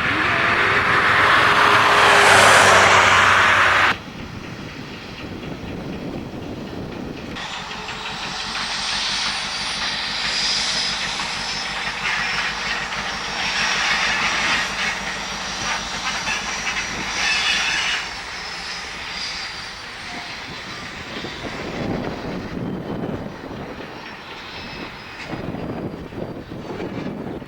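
V100 diesel-hydraulic locomotive shunting timber wagons: engine running with the rumble of wagons rolling on the track. The sound drops sharply about four seconds in, and a thin high squeal comes and goes through the middle.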